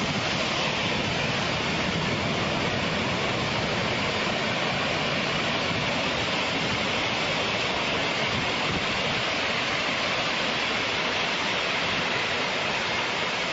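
Steady rushing water, an even hiss-like roar that holds constant throughout.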